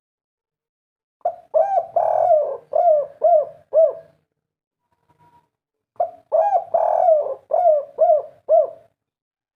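Spotted dove cooing in the 'kuk 3' style: two phrases of about six arched coo notes each, a couple of seconds apart.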